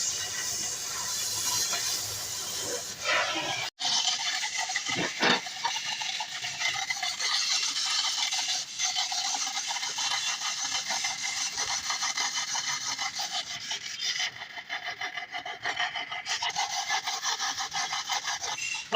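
A hand tool worked rapidly back and forth on steel, giving a continuous run of rasping, scraping strokes, with a sudden break about four seconds in.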